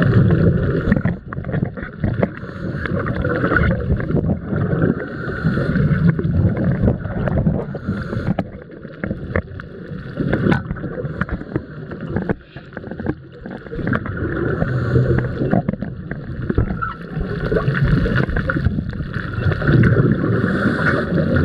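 Muffled water sloshing and gurgling around the camera, a surging noise that swells and ebbs every few seconds.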